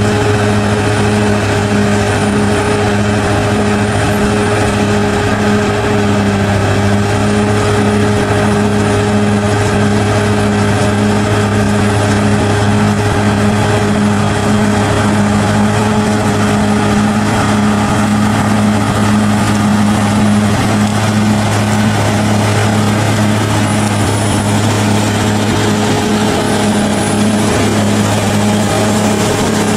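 Bulldozer's diesel engine running at a steady pitch, with no changes in speed.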